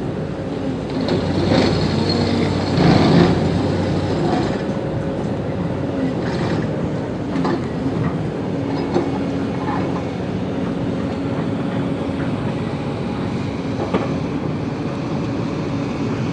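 Excavator's diesel engine running steadily, with a few sharp knocks scattered through it and a busier, louder stretch a second or two in.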